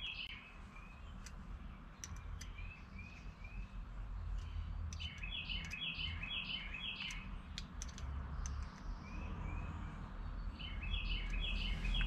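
Faint bird chirping: short high notes repeated in quick runs of three to five, with a few light clicks and a steady low hum underneath.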